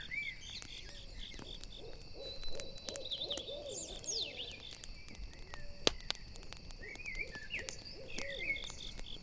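An owl hooting in two runs of wavering calls, about two seconds in and again near eight seconds in. Under it, crickets chirp in a steady pulse and a campfire crackles with sharp pops.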